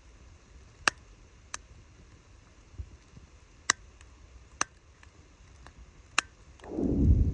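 Wood campfire crackling: a handful of sharp, separate pops spaced a second or so apart over a faint low background. Near the end a loud, low rushing noise comes in and takes over.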